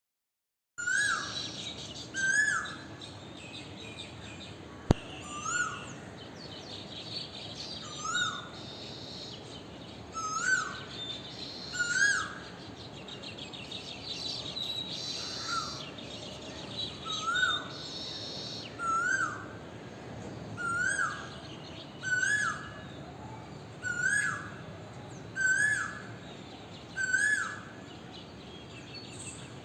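Birds singing: one bird repeats a short, hooked, rising call about every one and a half to two seconds over a steady chatter of other small birds. The sound begins just under a second in, and there is a single sharp click about five seconds in.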